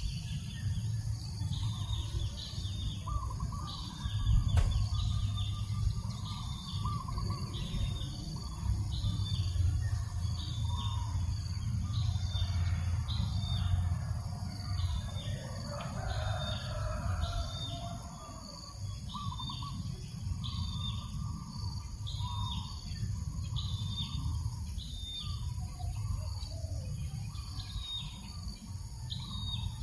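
Birds calling: one bird repeats a short high call over and over, about once a second, while other birds chirp at a lower pitch, over a low rumble of breeze on the microphone.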